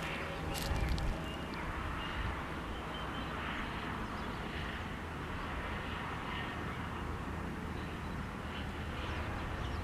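Steady low rumble of a train approaching in the distance, with a faint hiss above it and a few light clicks in the first second.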